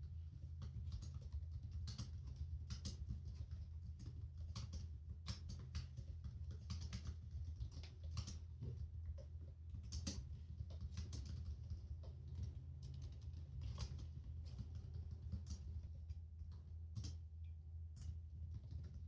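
Typing on a computer keyboard: irregular, quick keystroke clicks, a few keys at a time with short pauses, over a steady low hum of office background noise.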